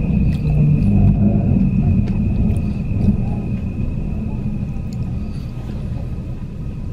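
Electric train running noise heard from inside the passenger cabin of an Odakyu Romance Car: a low rumble of wheels on the rails that fades as the train slows, with a faint steady high whine over it.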